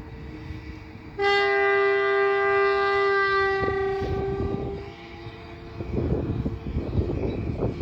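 Locomotive horn sounding one long blast of about four seconds. It is followed by the rumble and clatter of a train's wheels knocking over the rail joints as the train passes.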